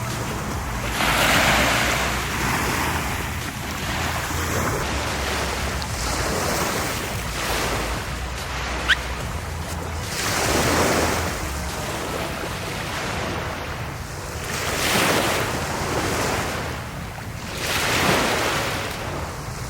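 Sea waves breaking on a beach: the surf swells and falls away several times, with a sharp click about nine seconds in.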